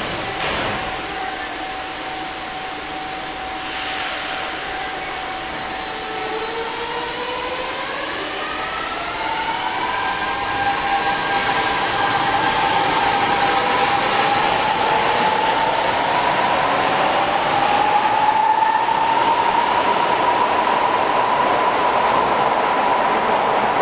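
Kyoto Municipal Subway 50 series electric train's traction motors whining as the train accelerates. A steady whine is joined after about six seconds by tones that climb in pitch over the next dozen seconds and then level off, over a running rush that grows slowly louder.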